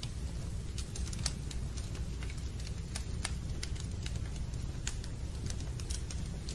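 Fireplace fire crackling: irregular sharp pops over a steady low rumble.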